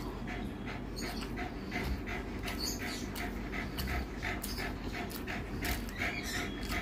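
Close-up wet chewing and lip-smacking of rice and curry eaten by hand, a quick rhythm of about three to four smacks a second.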